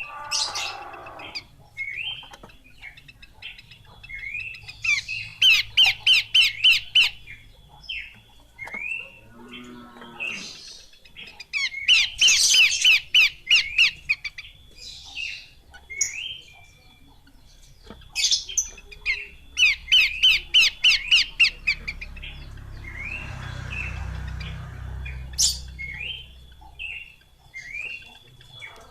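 Horsfield's babbler (pelanduk semak) singing: three loud bursts of rapid, evenly repeated notes, with short clipped calls between them. A low rumble comes in about two-thirds of the way through.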